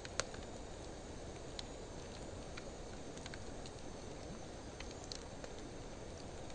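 Wood fire of driftwood and dry hardwood logs burning: a steady low rush of flame with scattered sharp crackles and pops, the loudest just after the start.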